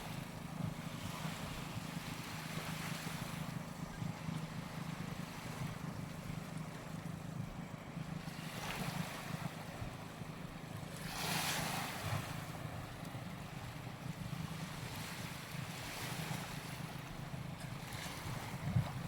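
Waves breaking and washing up the sand, with two louder washes about halfway through, over a steady low rumble of wind on the microphone.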